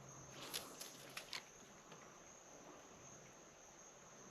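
Faint, steady high-pitched trilling of insects, with a few sharp clicks between about half a second and a second and a half in.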